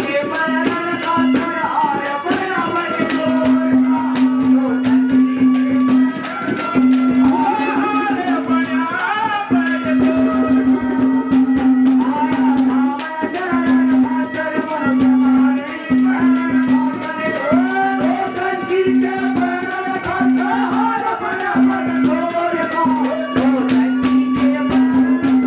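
Haryanvi ragni folk music: quick hand-drum strokes under a bending, wavering melody line, over a low note held again and again with short breaks.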